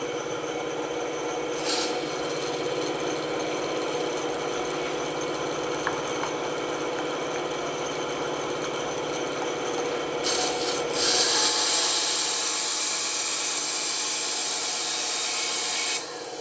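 Band saw running with its blade cutting wood: a steady motor hum under a rasping cut that grows louder and brighter about ten seconds in, then eases off sharply near the end.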